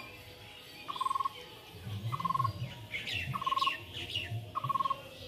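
Birds calling: one short, trilled note repeated about once every second and a bit, with higher downward-sweeping chirps in the middle.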